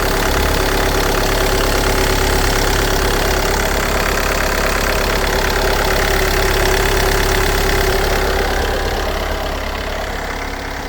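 Volkswagen 2.0 TDI common-rail diesel engine idling steadily while still cold, after a start at about −9 °C with its glow plugs disconnected. It grows gradually quieter near the end.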